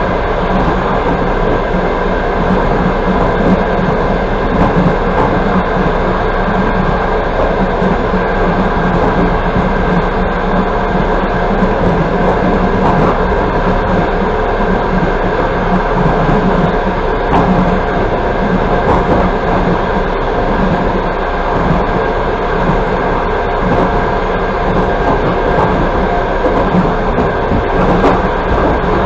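Passenger train running steadily at speed, heard from inside a carriage: a continuous rumble of wheels on the rails.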